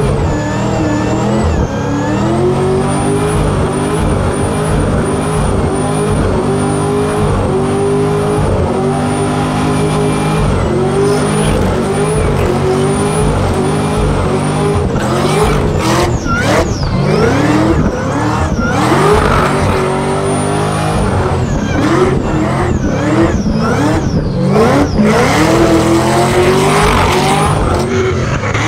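Car engine revving hard, its pitch rising and falling over and over about once a second in a burnout. Several sharp cracks come through in the second half.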